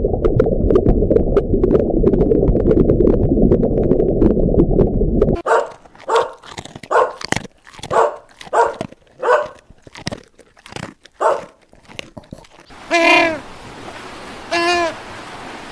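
A dog barking, with a run of short barks roughly every 0.7 s, after a few seconds of dull low rumbling noise. Near the end come three longer pitched cries.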